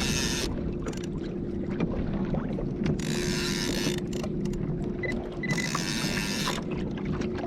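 Water splashing around a kayak in short bursts about every three seconds, over a steady low hum.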